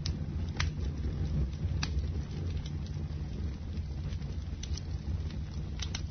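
Bonfire burning with a steady low rumble, a few sharp wood crackles popping through it.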